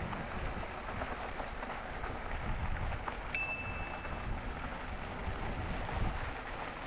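Steady rushing of wind and rolling noise from a moving e-bike. About halfway through, a bicycle bell gives a single short, ringing ding.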